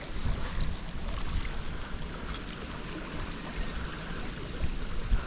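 Steady wash of water and wind noise with no clear pitch, with a faint knock near the end.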